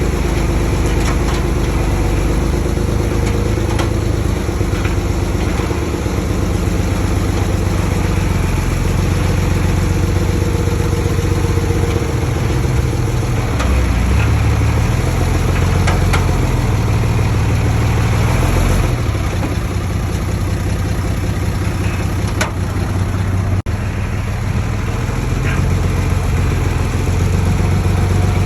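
Heavy diesel construction machinery running steadily, its engine note shifting up and down under load, with a few light knocks over it.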